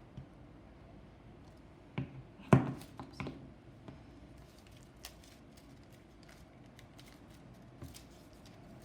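Strips of paper being handled and folded into paper chain loops: scattered light crinkles and taps, with one sharp knock about two and a half seconds in.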